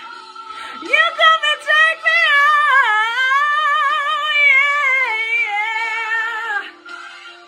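Woman singing a wordless run that settles into a long held note with vibrato, over a faint sustained accompaniment; the voice stops about a second before the end.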